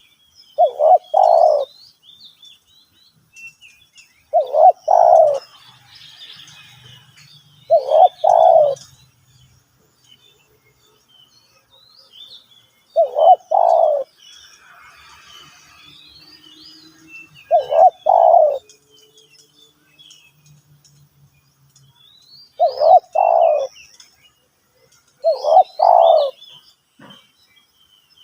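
Spotted dove cooing: seven short phrases a few seconds apart, each two or three quick, deep coo notes, with small birds chirping faintly behind.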